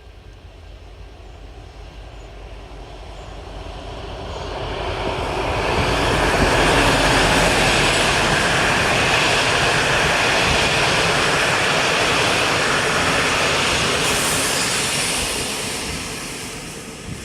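A train passing by: its rumble and wheel-on-rail noise build over a few seconds, stay loud for about nine seconds, then fade away.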